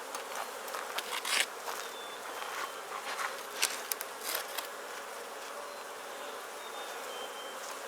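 Honeybees buzzing in a steady drone of many bees, with a few brief clicks and rustles in the first half.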